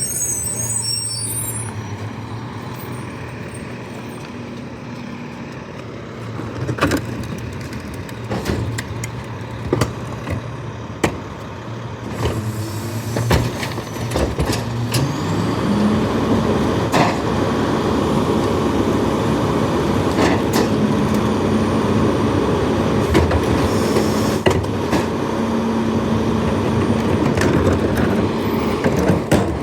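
Garbage truck engine running steadily, its pitch rising about halfway through as it picks up speed, with a series of sharp knocks and clanks. There is a brief high hiss at the very start.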